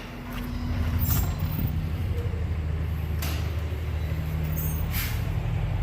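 Semi truck's diesel engine running steadily, its low hum swelling slightly about a second in, with a few brief sharp clicks or hisses over it.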